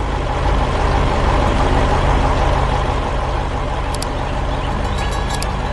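Heavy construction-vehicle engine running steadily, a deep hum under a wash of noise, with a few faint high ticks near the end.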